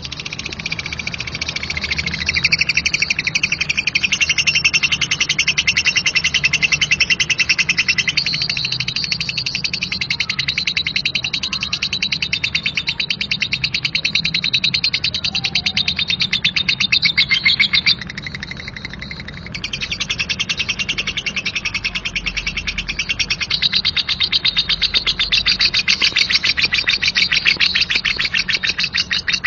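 Lovebird singing 'ngekek': one long, harsh, very fast chattering trill, shrill and unbroken except for a brief dip a little past halfway.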